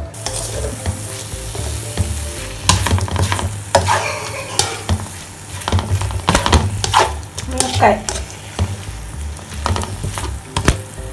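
Egg, meat and vegetables sizzling steadily in a hot oiled pan. About three seconds in, a spatula starts stirring and scraping the pan in repeated strokes, scrambling the egg into the mixture.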